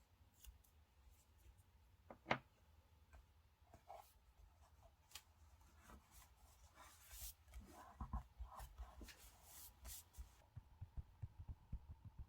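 Quiet handling of paper and stationery while decorating a diary: scattered light taps and rustles, one sharper tap about two seconds in, and a stretch of rustling and scratching later on. Soft low bumps come in near the end.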